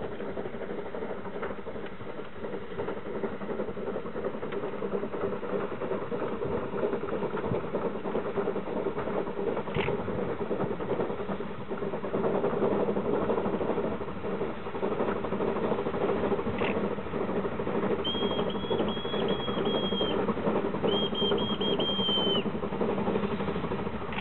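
Railway rotary snow plow running as it approaches through deep snow: a steady mechanical hum of its engine and spinning blower that grows louder partway through. Near the end come two high-pitched whistle blasts, the first about two seconds long and the second a little shorter.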